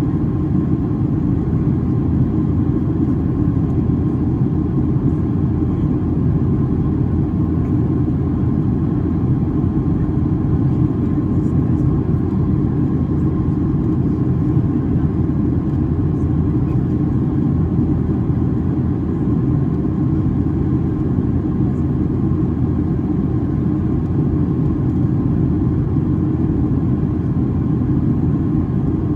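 Steady cabin noise of a Boeing 737-800 in flight: an even low rumble of its CFM56 jet engines and airflow, with a faint steady hum running underneath.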